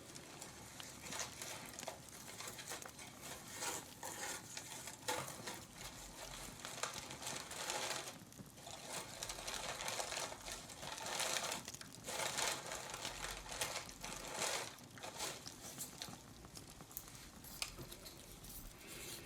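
Close-miked ASMR handling sounds: irregular rustling and crinkling in uneven swells as the decorations are handled.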